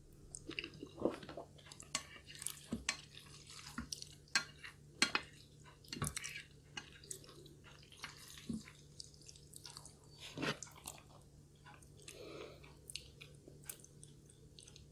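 Close-miked wet chewing and mouth sounds of a person eating, with many irregular smacks and clicks.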